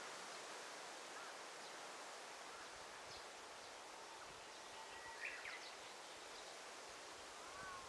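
Faint forest ambience: a steady hiss of rustling foliage with a few short, scattered bird chirps, the clearest a little after five seconds in and a falling one near the end.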